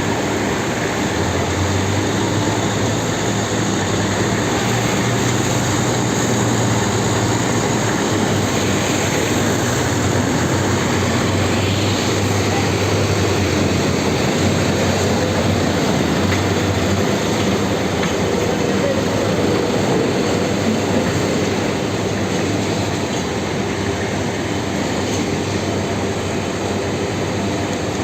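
New Holland tractor running steadily while hauling a load of sugar cane: a low engine hum under a continuous rattling, noisy clatter of the loaded rig.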